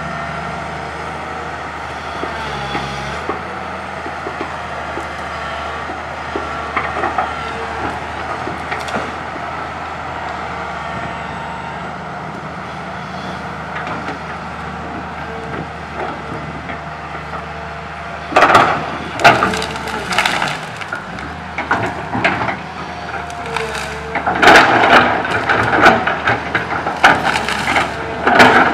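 Komatsu PC200 hydraulic excavator's diesel engine running steadily while it handles tree branches. In the second half come repeated loud cracking and crashing of wood as the branches are broken and loaded.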